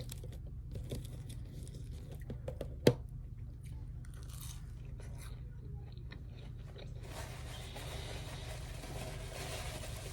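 Chewing and biting close to the microphone: a person eating chicken nuggets, with small wet mouth clicks. One sharp click about three seconds in, and a steady hiss that comes in about seven seconds in.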